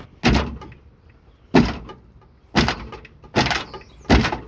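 Jammed sheet-metal door of a race car being forced, five loud metal bangs about a second apart, each with a short ringing tail, as the door is yanked and struck against the chain that holds it shut.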